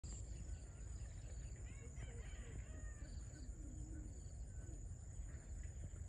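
Faint bird calls, short chirps and curving notes, most of them from about one and a half to four seconds in, over a steady high-pitched tone and low rumbling background noise.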